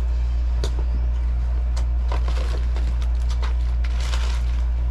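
Groceries being handled and packed, with a few light knocks and rustling, over a steady low hum.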